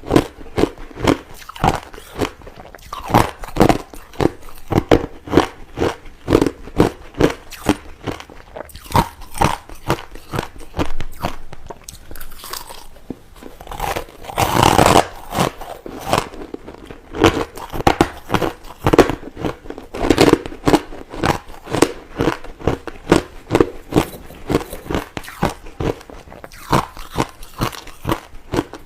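Crushed ice being bitten and chewed close to the microphone: a steady run of sharp crunches, about two to three a second, with one longer, louder crunch about halfway through.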